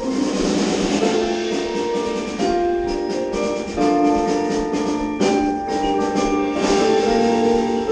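Marching percussion ensemble performing: held pitched chords from the front-ensemble keyboards change about every second, with sharp drum strokes throughout.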